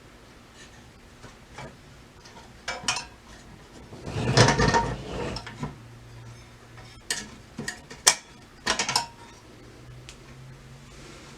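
Metal parts clicking and clattering as they are handled, with a louder scraping rattle about four seconds in and a run of clicks a few seconds later.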